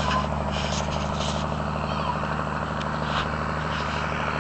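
M35A2 deuce-and-a-half military truck's multifuel inline-six diesel engine idling steadily, with a few short clicks or clanks in the first second and a half.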